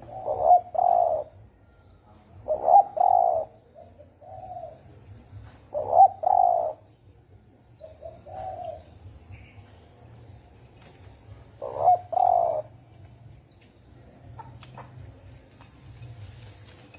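Spotted dove cooing in the deep 'thổ ồm' style: four loud two-part coo phrases spaced a few seconds apart, with two softer single coos between them.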